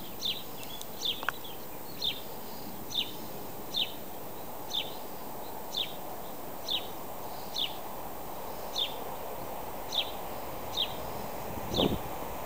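A bird repeats a short, sharp, falling chirp about once a second over a steady outdoor hiss. Near the end a low rumble begins to rise as a train approaches.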